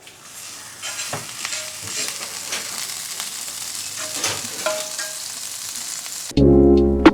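Marinated tandoori chicken pieces sizzling on a hot grill, a steady hiss with small crackles and pops. About six seconds in, loud music with a deep bass cuts in over it.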